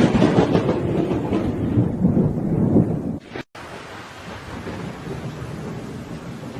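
Thunderstorm sound effect after the song ends: a rumble of thunder for about three seconds, cut off abruptly, then steady rain hiss that slowly fades.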